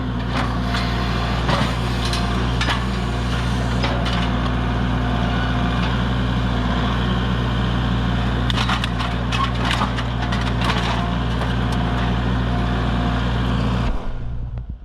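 Tractor engine running steadily while something is crushed and broken, with repeated sharp cracks and crunches that are heaviest about nine to eleven seconds in. The engine sound cuts off abruptly near the end.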